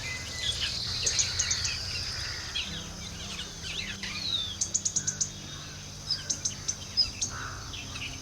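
Several small birds chirping and calling, with quick runs of sharp, high-pitched repeated notes about a second in, near the middle and again a little later, over a steady high hiss.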